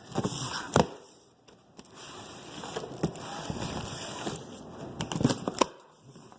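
Packaging on new tires being handled: rustling and crinkling wrap with several sharp knocks.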